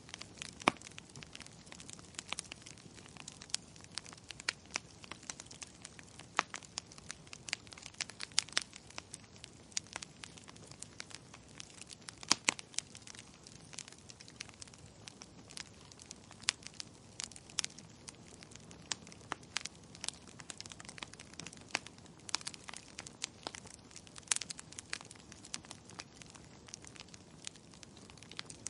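Wood fire burning in a fireplace, crackling steadily with irregular sharp pops over a soft hiss; the loudest pops come about a second in, near the middle and near the end.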